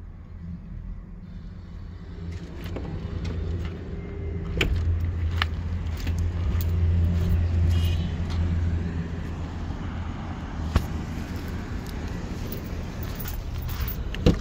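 Lexus LS sedan's V8 engine idling with a steady low hum that swells in the middle and then eases, with a few sharp clicks from the phone being handled.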